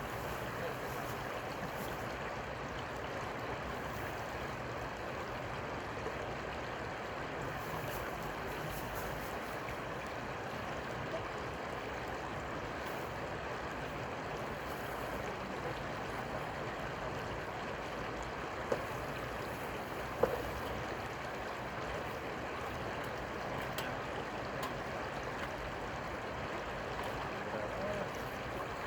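Steady rushing of river water, with two brief knocks about two-thirds of the way through.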